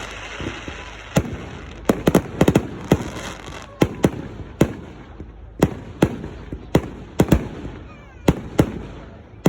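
Firework display going off: a rapid, irregular series of sharp bangs and cracks, a dozen or more, some coming in quick pairs and clusters.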